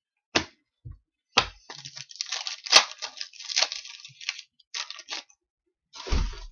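Trading cards being handled: a run of papery rustling and sliding scrapes with small clicks as cards are slid and flicked off a stack, then a dull thump near the end.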